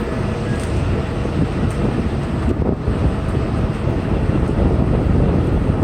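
Wind buffeting the microphone over a steady low rumble of city street noise.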